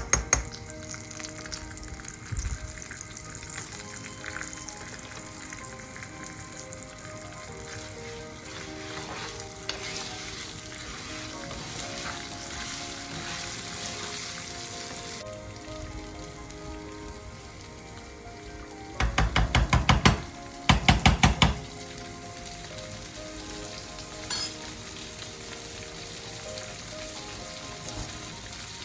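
Food sizzling as it fries in a pan, a steady hiss. About two-thirds of the way through come two short runs of rapid, loud tapping.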